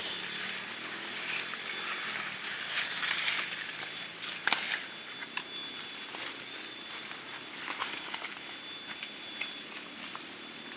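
Outdoor ambience: a steady hiss with a faint, thin high tone running through it, broken by scattered small clicks and snaps. The loudest snap comes about four and a half seconds in.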